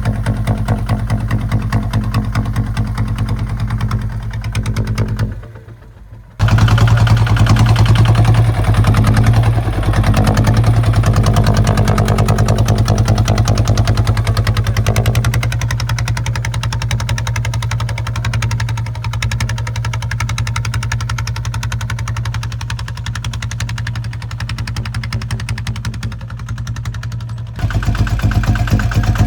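Kubota ZT155 single-cylinder diesel engine on a tractor running steadily while plowing. The sound drops away for about a second around five seconds in, then comes back, and grows louder near the end.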